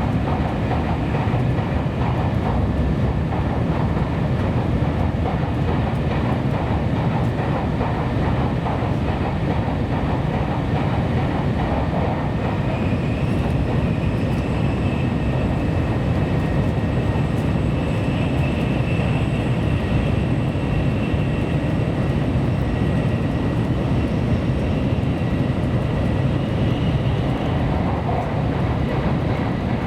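Steady running noise of a Kyushu Shinkansen train at speed, heard inside the passenger car: a low rumble with a faint high whine from about halfway through until near the end.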